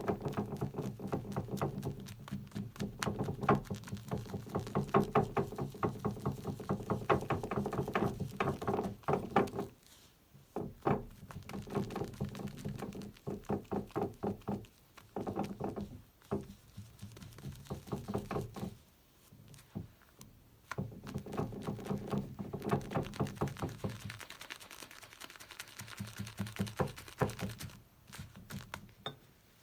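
Maggard G5 synthetic shaving brush whipping up shave soap lather in a shaving scuttle: fast, rhythmic wet swishing strokes of the bristles against the bowl, with a few short pauses.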